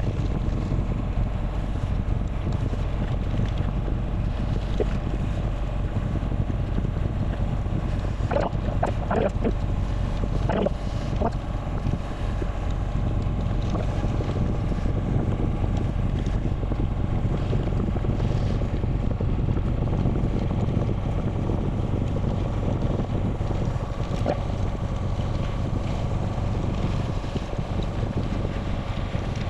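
Wind rushing over the microphone of a camera riding along, a steady low buffeting, with a few short higher-pitched sounds standing out about a third of the way in.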